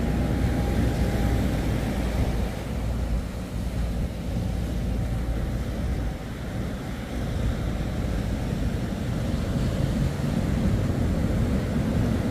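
Ski boat outboard motors running at low speed, mixed with steady surf and wind noise; a faint engine whine fades out about halfway through.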